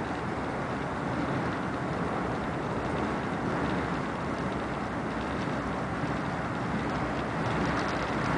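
Steady rumbling rush of a passenger train running at speed, heard from inside the carriage, growing a little louder near the end.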